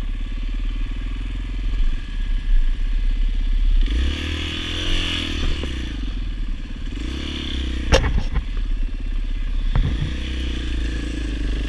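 Dirt bike engine running at idle, revved up and back down twice, about four and seven seconds in, with a sharp click about eight seconds in.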